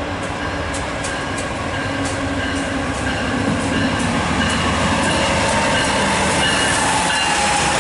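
Train passing on the track, its wheels rolling and clicking over the rails with thin wheel squeal, getting gradually louder.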